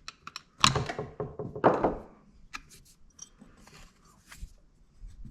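Handling noises from chainsaw engine parts being handled at a workbench: a series of knocks and rubbing, the loudest a little under a second in and again near two seconds in, then scattered faint clicks.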